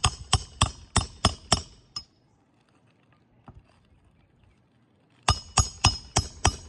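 Hammer driving roofing nails into asphalt shingles: quick strikes, about three a second, each with a bright metallic ring. A run of about seven strikes, a pause of about three seconds, then about five more.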